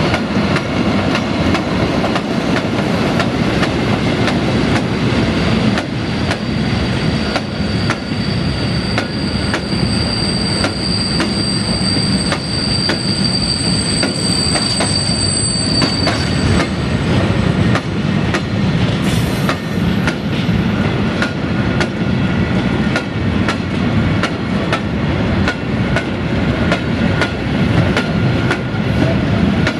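Freight train of cement hopper wagons rolling steadily past, wheels clicking rhythmically over rail joints, with a thin high-pitched wheel squeal through the first half.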